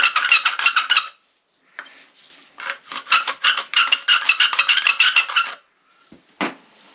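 Fast back-and-forth rasping strokes on type L copper water pipe, about five a second, in two runs that stop about a second in and again at about five and a half seconds, followed by a single sharp knock.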